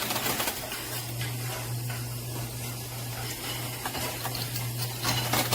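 Arcade room ambience: a steady low hum under an even hiss of background noise, with a few faint clicks.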